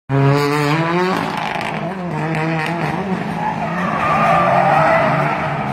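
Competition car engine revving hard with a wavering pitch, then tyres squealing and skidding as it is driven at the limit.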